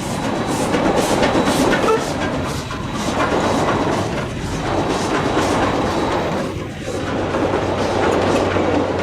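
C17 class steam locomotive working a train, its exhaust beating rhythmically about two to three times a second over the rumble of the train on the rails.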